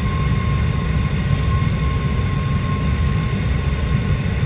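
Aircraft engine running steadily at full power: a dense, unchanging low drone with a thin steady whine above it.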